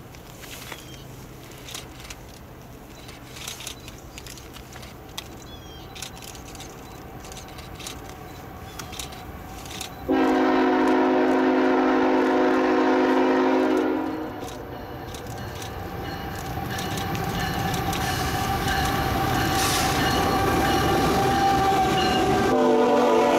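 Approaching CSX diesel freight train: a faint distant rumble, then the locomotive horn sounds a loud chord of several notes for about four seconds, about ten seconds in. The engines and wheels grow steadily louder as the train nears, and the horn sounds again near the end as the locomotives pass close by.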